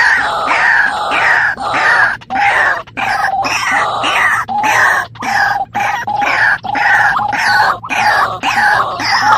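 Birds calling over and over in harsh, overlapping calls, each a short falling note, a few calls a second with brief gaps between runs.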